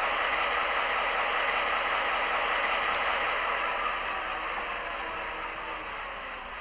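Model GP38-2 diesel locomotive's onboard sound running its diesel engine sound, steady, then growing fainter from about four seconds in.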